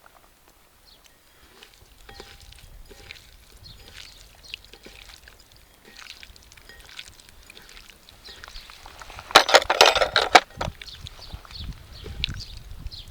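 Outdoor cooking handling sounds: scattered light clicks and knocks, then a loud, noisy burst about nine seconds in that lasts about a second, with a low wind rumble near the end.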